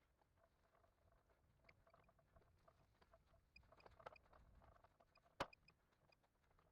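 Near silence with faint scattered ticks and one sharp click about five and a half seconds in.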